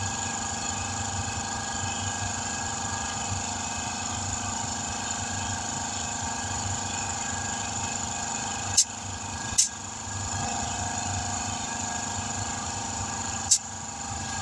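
A steady machine hum, with a few sharp clicks: two about nine seconds in and one near the end.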